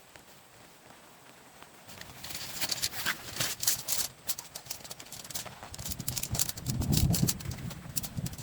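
Irregular clicking and knocking, like objects being handled or footsteps, starting about two seconds in and heaviest near the end.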